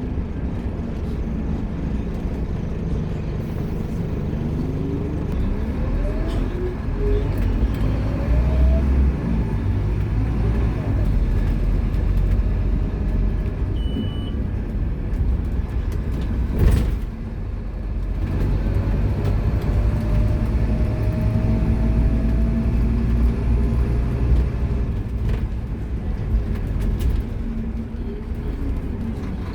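Scania K230UB Omnilink bus's five-cylinder diesel engine and drivetrain under way, with a steady low rumble and several rising whines as it pulls away and speeds up. A single sharp knock sounds about halfway through.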